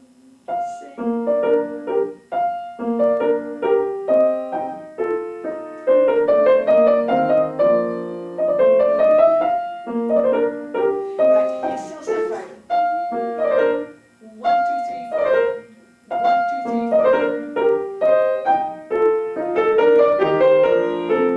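Solo acoustic piano playing a classical piece in short phrases separated by brief pauses.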